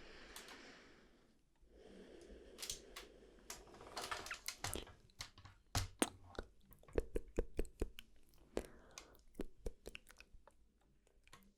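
ASMR mouth sounds close to the microphone: soft breathy hiss at first, then a quick irregular run of tongue and lip clicks.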